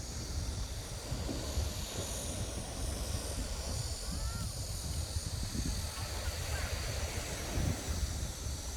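Wind buffeting the microphone, a heavy gusting rumble, over the steady hiss of sea surf.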